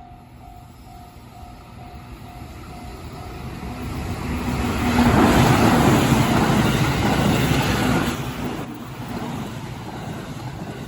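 A Japanese level-crossing warning bell rings in a steady beat while a JR Chūō Line train approaches and passes through the crossing. The train noise builds up, is loudest about halfway, and then fades, drowning out the bell while it passes.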